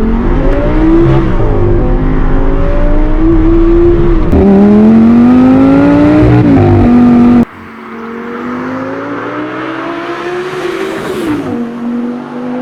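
Audi R8's naturally aspirated 5.2 V10 through a Milltek exhaust, accelerating hard: the engine note climbs repeatedly and drops back at each gear change. About seven seconds in the sound suddenly becomes much quieter, then climbs and falls once more.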